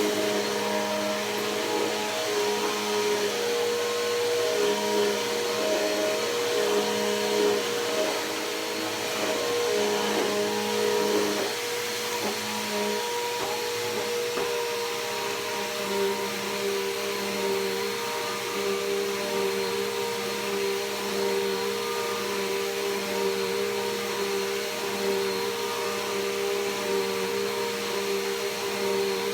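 Bissell PowerForce Helix Turbo upright vacuum running continuously, its motor hum over a steady rush of air. The pitch wavers for the first dozen seconds or so, then holds steady.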